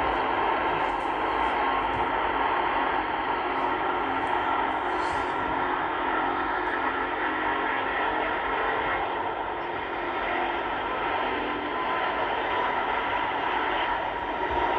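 Jet airliner engines running, a steady rushing noise with a faint steady whine in it.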